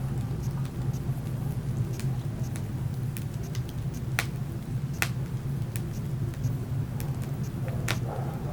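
Wood fire burning in a fireplace, crackling with sharp, irregular pops over a steady low rumble; the loudest pops come about four and five seconds in and again near the end.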